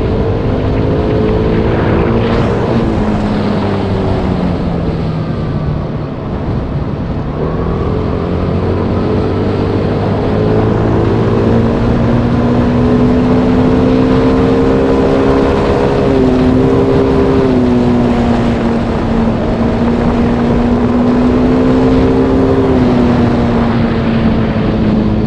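Motorbike engine running under way over a steady rush of wind and road noise. Its pitch falls a couple of seconds in, picks up again about eight seconds in and holds, with brief dips around the middle and near the end.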